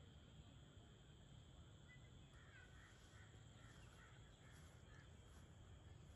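Very quiet background with faint, harsh bird calls, several in quick succession from about two seconds in to about five seconds in.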